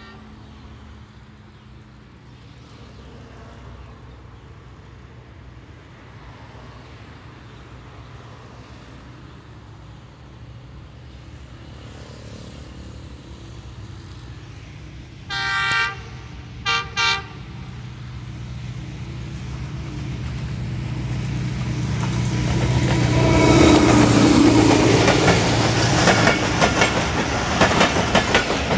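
ZCU-20 diesel-electric locomotive approaching at speed, its engine growing steadily louder. About halfway through it sounds its horn: one blast, then two short ones. It passes close by, and the passenger coaches follow with a rhythmic clickety-clack of wheels on the rails.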